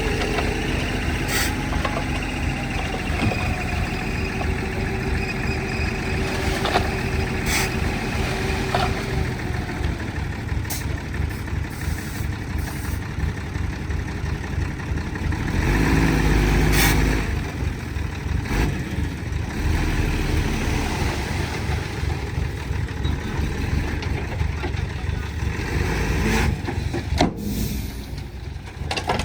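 Diesel engine of heavy earthmoving machinery running, with a louder surge about halfway through and a few scattered sharp clanks.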